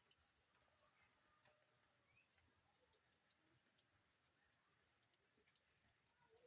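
Very faint rain: irregular, scattered ticks of drops over a low, steady hiss.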